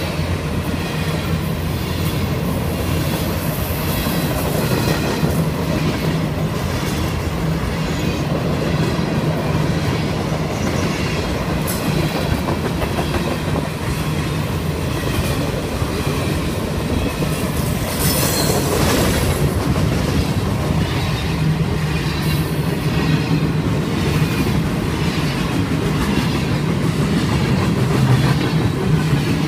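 Freight train of open gondola cars rolling past close by: a steady, loud rumble with the clickety-clack of wheels over rail joints. A short high-pitched flare comes a little over halfway through.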